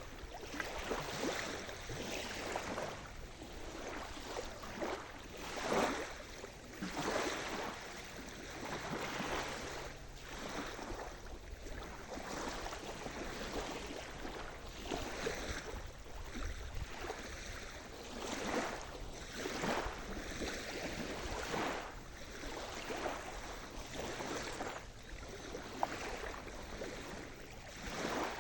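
Sea surf washing onto a shore: waves breaking and rushing in one after another, with louder swells about six seconds in and again around twenty seconds.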